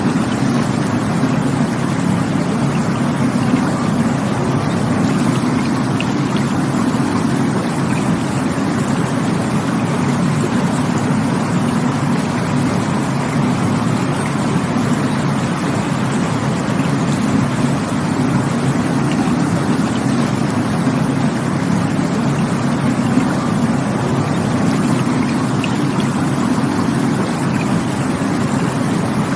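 Rushing water running steadily: a dense, unbroken wash of sound, heaviest in the low range, with no swells or pauses.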